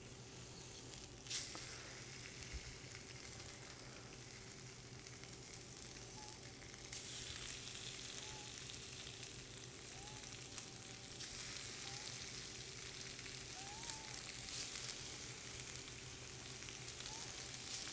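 Raw ahi tuna patties sizzling on a hot grill plate, the hiss swelling about 7 seconds in and again near 11 seconds as more patties are laid down. A steady low hum runs underneath, with a sharp click about a second in.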